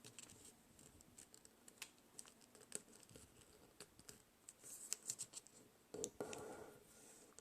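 Faint crinkling and ticking of origami paper being folded and creased by hand, with a short rustle about six seconds in.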